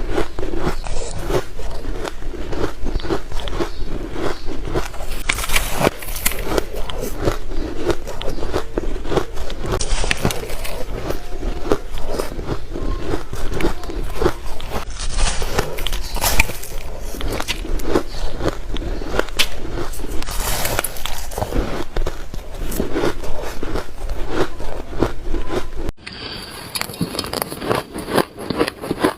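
Close-miked crunching of shaved ice being bitten and chewed, a dense, irregular crackle. About 26 seconds in it cuts abruptly to a quieter stretch of the same crunching.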